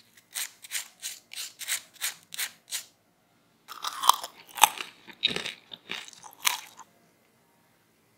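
Crispy french fries being chewed. About eight even crunches come at roughly three a second, then after a short pause there is a louder, denser run of crunching lasting about three seconds.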